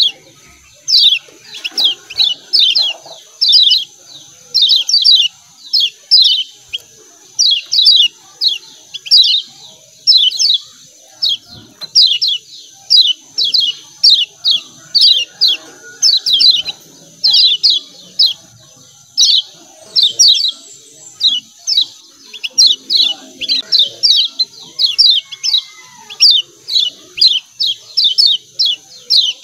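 Kecial kuning white-eye giving its 'ciak ciak' chatter: quick runs of three to five sharp, falling chirps, repeated about once a second without a break, over a steady high hiss.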